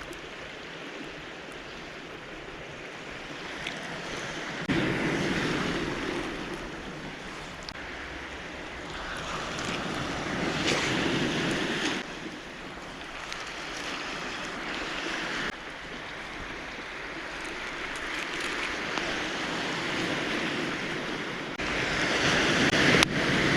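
Sea waves breaking on a boulder-and-cobble shore, swelling and washing back every few seconds, with some wind on the microphone.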